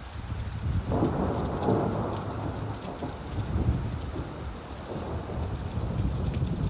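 Rolling thunder over steady rainfall: a low rumble swells about a second in and keeps rolling under the even hiss of the rain.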